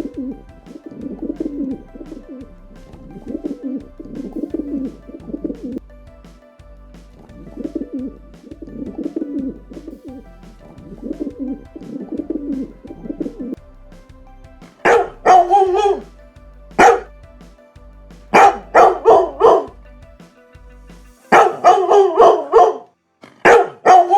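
A bird cooing over and over in low, soft calls, then from just past the middle a dog barking in loud, short, sharp barks in quick runs.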